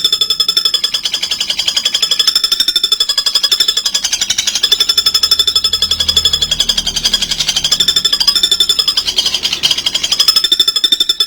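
A bird calling in a long, fast, even rattling trill with two steady high pitches, kept up without a break.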